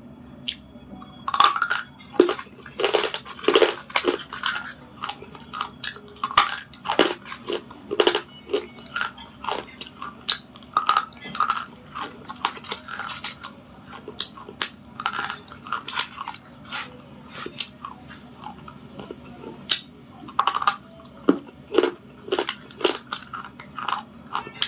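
Close-up biting and chewing of hard, dry grey clay and slate pencil: sharp, irregular crunches, often several in quick succession, with short gaps between the mouthfuls.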